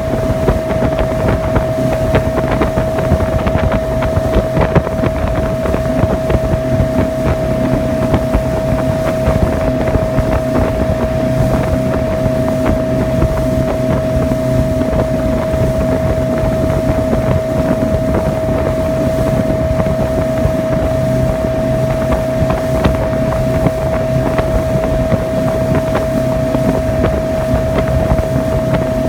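Sea Swirl motorboat running steadily underway, its engine holding one speed with a steady whine over the low drone, mixed with the rush of water and wind on the microphone.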